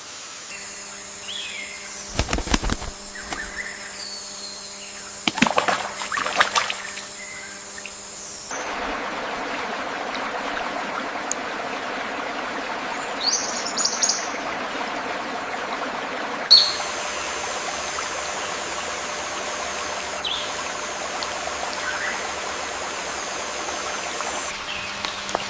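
Rainforest stream ambience: water flowing steadily, with a few short bird chirps scattered over it. Early on there are two brief bursts of rapid ticks before the water sound grows louder about a third of the way in.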